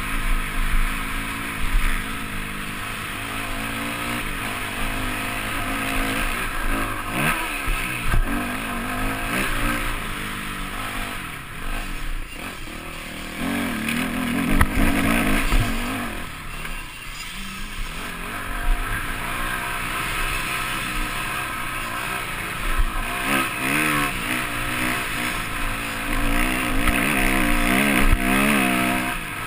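Yamaha motocross bike engine heard from onboard, revving up and dropping back again and again as the rider works the throttle through a lap. A low rumble runs underneath throughout.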